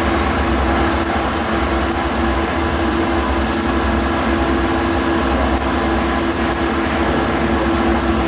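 Steady, loud mechanical noise with a low hum and a held steady tone, unbroken throughout.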